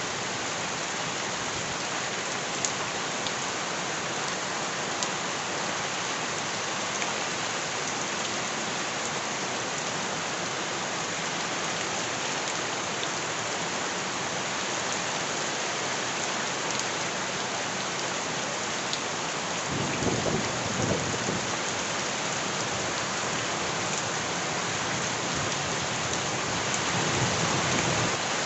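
Steady heavy rain falling, an even hiss with occasional sharper drop ticks, joined by brief low rumbles about two-thirds of the way through and again near the end.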